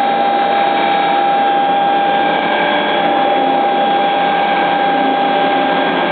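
Mura FPF22-3000 CNC milling and drilling machine running, its spindle and drives giving a steady high whine over mechanical noise.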